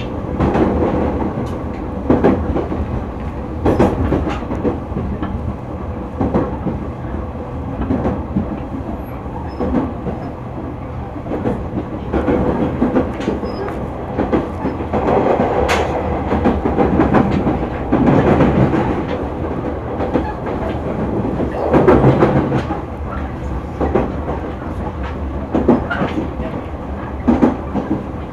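JR 209 series electric train under way, heard from inside the car: a steady running rumble and hum, with the wheels clacking over rail joints now and then.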